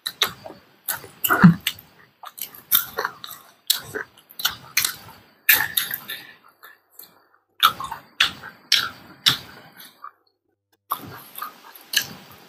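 Mouth sounds of people eating close to the microphone: a run of short, irregular chewing smacks and crunches, with a brief pause about ten seconds in.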